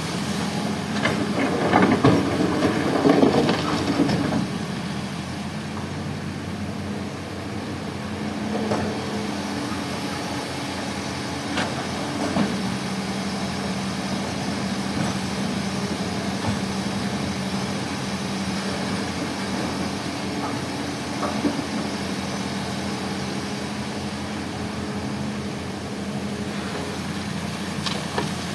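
Heavy diesel machinery running steadily at a constant low hum, louder and noisier between about one and four seconds in, with a few sharp knocks later on.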